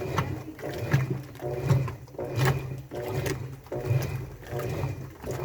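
Washing machine running its wash cycle: a motor hum with clunks and swishing that swells and fades in a steady rhythm, a little over once a second.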